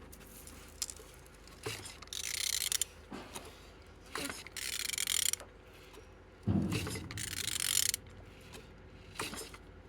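Ratchet wrench turning an Opel A20DTH 2.0 diesel engine over by hand, in several separate strokes with ratchet clicking and mechanical rattling. It turns freely, a sign the engine is not seized.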